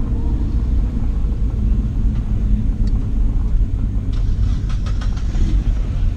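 Nissan Skyline R34 GT-T's turbocharged RB25DET straight-six running at low revs as the car creeps along at walking pace. It is a steady low rumble heard from inside the stripped cabin.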